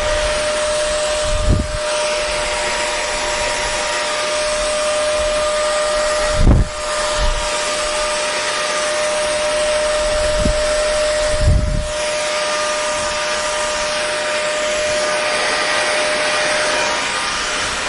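Hair dryer running steadily: an even rushing of air with a constant whining hum from the motor. A few dull low thumps come through it at intervals.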